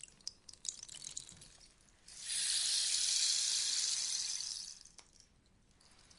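Rainstick being tipped: a few last grains trickling with scattered light clicks, then a fresh cascade through the tube, a dense rain-like hiss lasting about three seconds that fades out, leaving it nearly quiet near the end.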